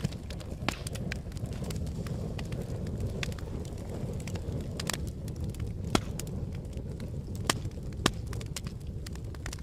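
Campfire burning: a steady low rumble of flames with irregular sharp crackles and pops, a few louder snaps about six, seven and a half and eight seconds in.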